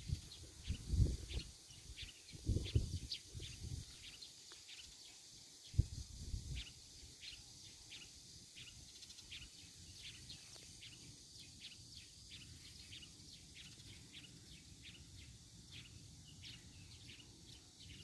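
Birds chirping: many short, high, falling chirps, several a second. A few short low rumbles in the first six seconds.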